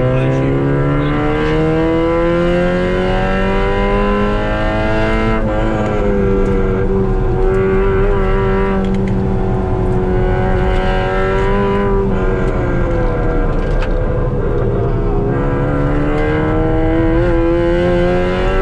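Car engine heard from inside the cabin under hard driving on a race track. The revs climb for about five seconds, drop suddenly at an upshift, hold steady, then fall away as the car slows before climbing again near the end.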